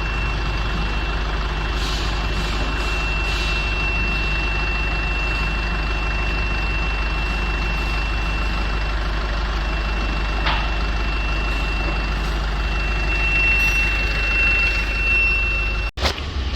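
Isuzu N-series truck's 4JJ four-cylinder turbo-diesel idling steadily, with a steady high whine over it; the sound cuts off suddenly near the end.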